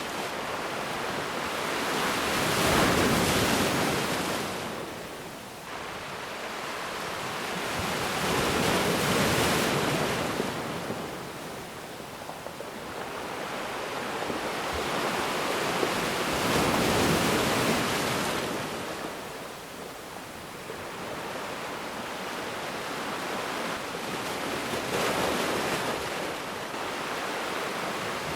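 Ocean waves surging in and drawing back, swelling and fading four times in slow, even rises of surf.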